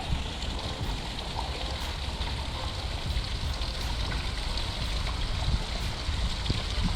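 Steady rushing of flowing water, typical of a river running high after a typhoon, with an uneven low rumble of wind on the microphone.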